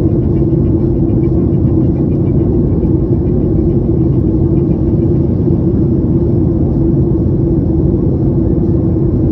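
Steady cabin rumble of an airliner in flight: engine and airflow noise with a constant low hum, unchanging throughout.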